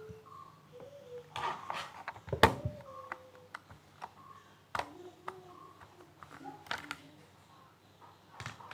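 Scattered sharp clicks and knocks, the loudest about two and a half seconds in, with short faint whining tones in between.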